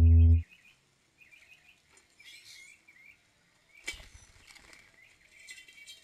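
Small backyard birds chirping in short, repeated notes, with a sharp knock about four seconds in. A loud musical note cuts off about half a second in.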